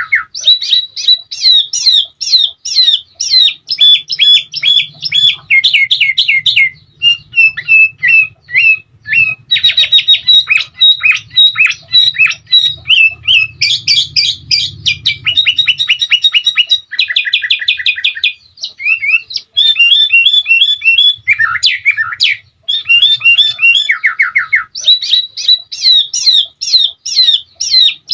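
Caged sooty-headed bulbul (kutilang) singing loudly and without a break: quick chirps and fast rolling trills, run together in long phrases with a few short pauses. The bird has learned canary-style trills into its song.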